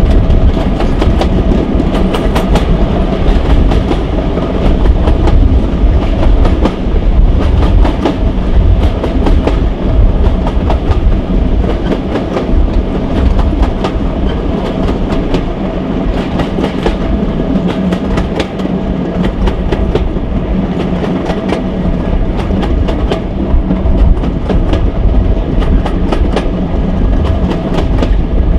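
Train running at speed heard from an open coach window: a steady low rumble, dense clicking and clattering of the wheels over the track, and a steady drone from the diesel-hydraulic locomotive hauling it, Warship D821 with its Maybach engines.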